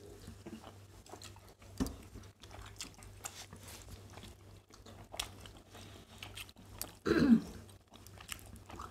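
Two people chewing and making small mouth sounds as they eat rice and curry by hand, with light clicks as fingers work the food in steel plates. A short throat sound from one of them comes about seven seconds in.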